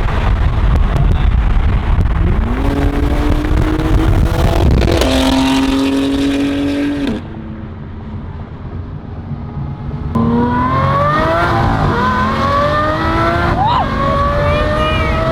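Sports car engine accelerating hard, its pitch climbing in steps through gear changes. The sound drops away abruptly about seven seconds in, then comes back about three seconds later with another hard run up through the gears.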